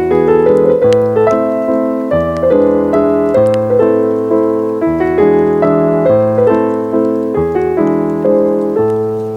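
Solo piano music: a gentle, calm melody over chords, each note struck and fading away.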